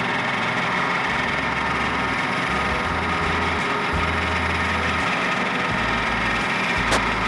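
Milling machine running steadily with a small end mill in the spindle, a continuous even machine sound. A single sharp click near the end.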